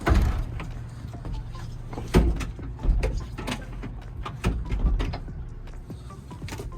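A boat's engine-room hatch being opened and someone climbing down into the engine room: a series of knocks and thumps, the loudest right at the start and about two seconds in, over a steady low hum.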